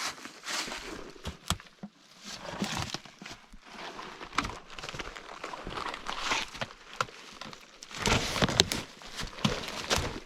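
Footsteps and scuffs of a person making their way over rough woodland ground, uneven and irregular, heaviest about eight seconds in.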